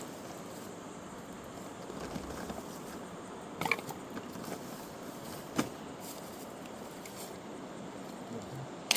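Steady rushing noise of a fast mountain river, with three sharp knocks, the last near the end.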